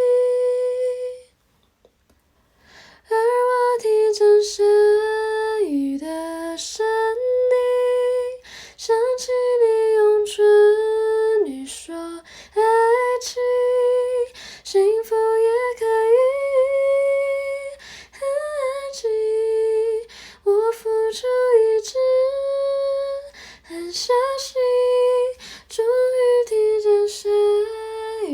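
A woman singing a slow Mandarin pop ballad in long, held phrases, with a short break about two seconds in.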